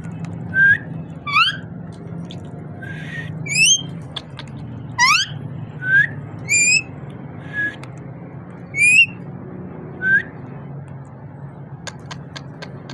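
Parrot whistling a series of short, sharp notes about a second apart, many sliding steeply upward in pitch.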